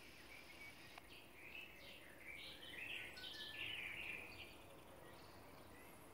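A songbird singing faintly in the background: a quick run of short chirping notes starting about a second in and fading out after about four seconds, over a steady faint hiss.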